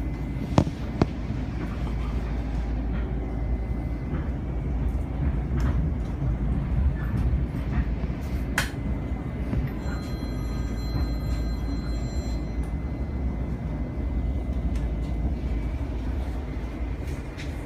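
LIRR M7 electric railcar running, heard from inside the car: a steady low rumble, with sharp clicks near the start and about halfway through. Just after halfway, a set of high steady tones sounds for a couple of seconds.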